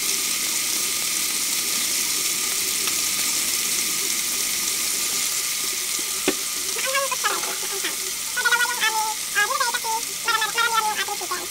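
Chicken pieces and garlic frying in hot oil in a pan, giving a steady sizzling hiss. There is one sharp click about six seconds in.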